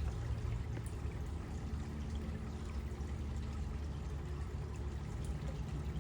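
Steady low rumbling background noise with a few faint scattered clicks.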